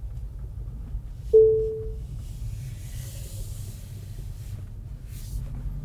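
Low steady road rumble inside the cabin of a Tesla Model 3 driving with the windows closed, with no squeak or creak from the front suspension now that Meyle HD control arms are fitted. About a second in, a single short chime-like tone sounds and fades within half a second.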